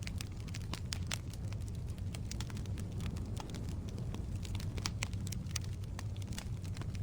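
Firewood logs burning in a fireplace: a steady low rumble of flame with frequent sharp, irregular crackles and pops.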